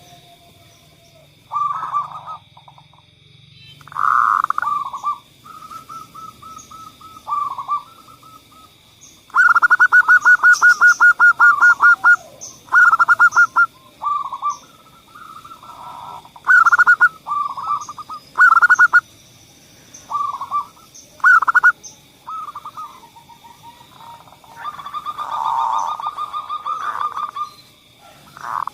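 Zebra doves (perkutut) cooing in repeated short staccato phrases, with a long, rapid run of pulses about ten seconds in. A faint steady high whine runs underneath.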